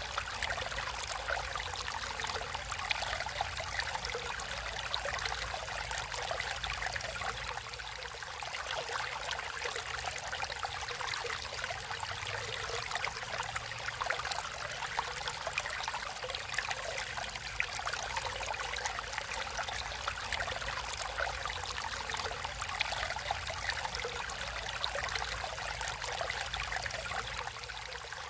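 Natural stream of water flowing and trickling steadily, a continuous splashing hiss with fine bubbling crackle and a low rumble beneath.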